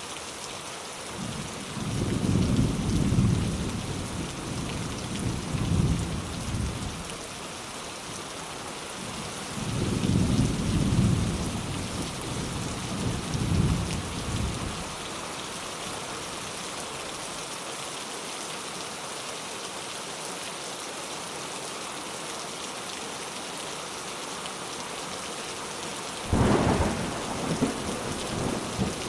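Steady rain with light thunder: two long, low, rolling rumbles in the first half, then a sharper thunderclap near the end.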